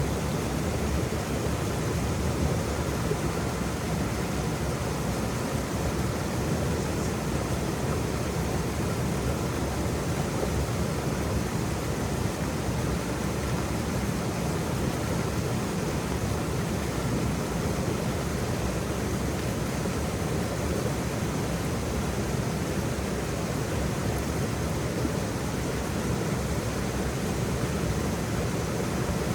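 Waterfall pouring: a steady, unbroken rush of falling water, heaviest in the low end.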